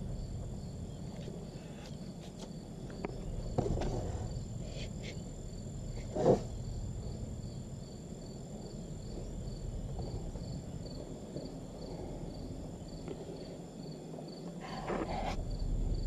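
Crickets chirping in a steady, evenly pulsing trill, over a low rumble, with a single loud knock about six seconds in.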